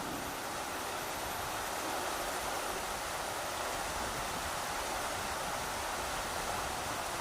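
Rushing river water, a steady, even rush with no breaks, with wind likely mixed in.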